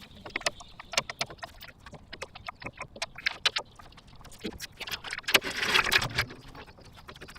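Sped-up garage work sounds: a rapid jumble of sharp clicks and clanks of tools and parts, with a short noisy burst about five and a half seconds in.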